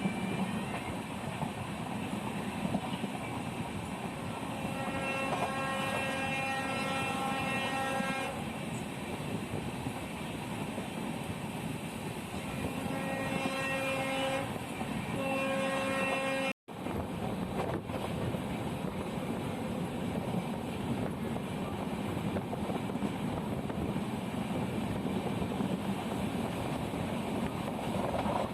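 Konkan Railway train running with a steady rumble of wheels and carriages on the track, heard from on board. The locomotive horn sounds in a long blast about five seconds in, then twice more about halfway through.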